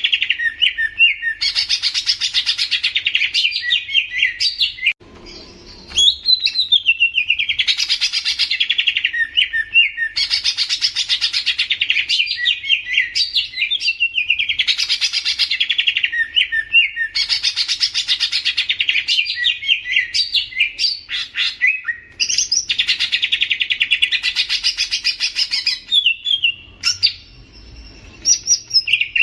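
A leafbird (cucak ijo) singing in a long run of loud, dense, chattering song phrases about two to three seconds each, separated by brief pauses, with one longer break about five seconds in.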